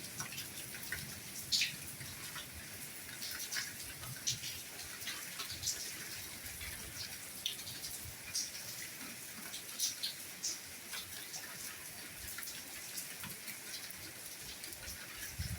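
Soft rain falling: a steady high hiss with many individual drops tapping and dripping at irregular moments.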